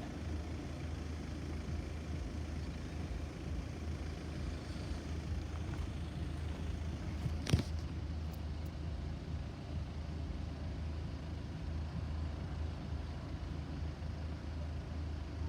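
Steady low outdoor rumble of vehicle noise, with one sharp click about halfway through and a faint steady tone creeping in near the end.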